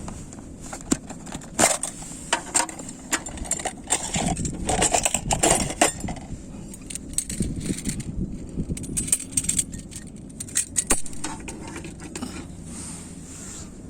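Irregular clinks, rattles and light knocks of small metal items being handled, such as camp cookware or utensils.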